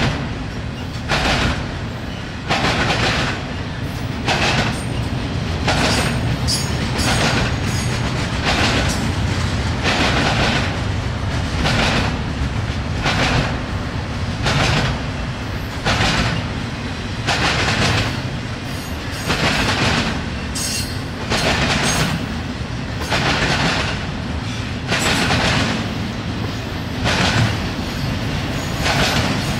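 Double-stack container well cars rolling past on the rails: a steady low rumble of wheels on track with a rhythmic clickety-clack, swelling about once a second as each set of wheels goes by.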